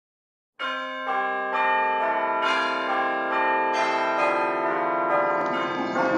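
A tune played on chiming bells, a new note struck about every half second, each note ringing on under the next.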